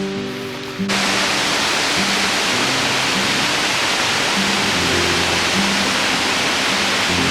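Background acoustic guitar music, then about a second in a loud, steady rush of fast-flowing creek water cuts in and covers it, the music still faintly audible underneath.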